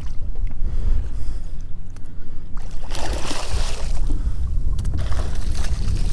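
Wind buffeting the microphone in a heavy low rumble, with short rushes of splashy noise about three seconds in and again near five seconds.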